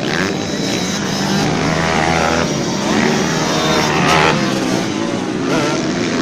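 Racing motocross dirt bikes' engines revving, the pitch rising and falling again and again as the bikes accelerate and shift, several bikes overlapping.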